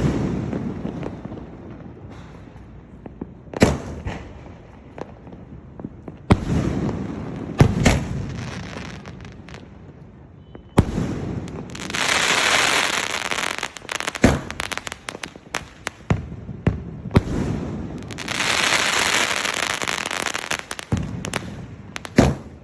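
A 2.5-inch, 30-shot multi-shot firework cake (sky-shot setout) firing: sharp bangs of shells launching and bursting every few seconds, with two long spells of dense crackling about halfway through and again near the end.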